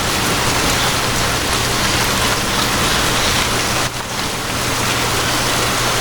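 Steady rain ambience: an even rush of rainfall with a low, steady hum beneath it. The level dips briefly about four seconds in.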